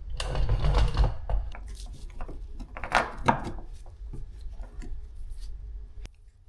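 Hands and tools working on a car's exterior door handle inside the door shell: scraping and rubbing bursts with small clicks. The loudest comes in the first second and again around three seconds in.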